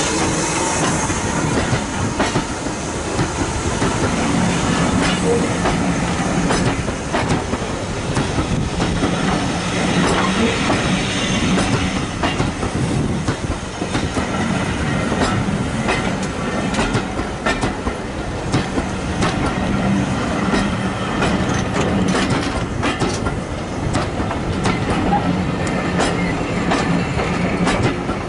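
Passenger coaches of a steam-hauled train rolling slowly past at close range, wheels clicking over the rail joints over a steady rumble. A hiss dies away in the first second.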